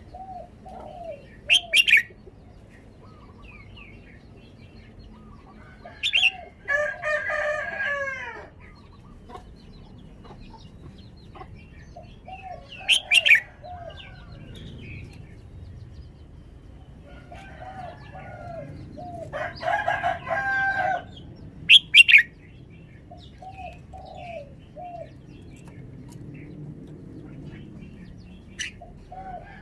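A red-whiskered bulbul singing short phrases: a few quick low notes, then sharp high whistles, repeated every few seconds. Twice a longer, fuller call of a second or two breaks in, most likely a rooster crowing.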